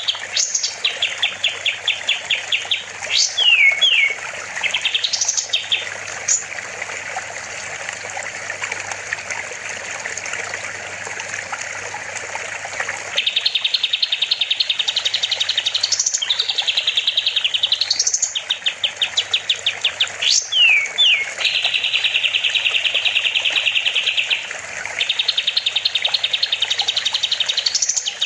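A kapas tembak songbird singing: rapid trilled phrases and quick rising and falling whistled sweeps, with a lull of several seconds in the middle before dense trilling resumes. Running water trickles underneath.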